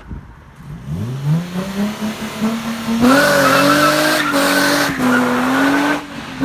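Infiniti G35 sedan's engine revving up, then about three seconds in the rear tyres break loose in a burnout: loud tyre squeal over the engine held at high revs for about three seconds, easing off near the end.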